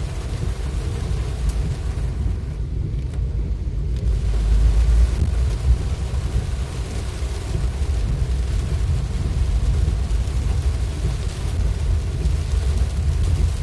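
Steady low rumble of a vehicle moving through heavy rain: road and wind noise with a fainter hiss of rain.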